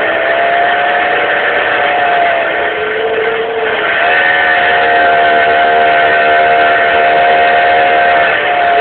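Suzuki 1000 motorbike engine held at high revs, turning a 100cc kart engine over in an attempt to start it. The loud, steady engine note sags about three seconds in, climbs back a second later and holds, then dips again near the end.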